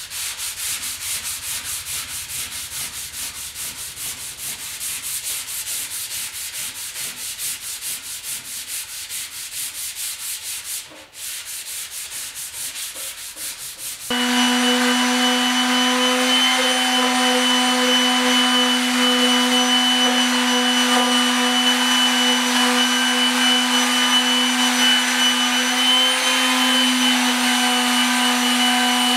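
Fine-grit sandpaper rubbed back and forth over a metal motorcycle fuel tank in quick, rhythmic strokes. About fourteen seconds in, a louder steady machine hum with a constant pitch abruptly takes over and runs on.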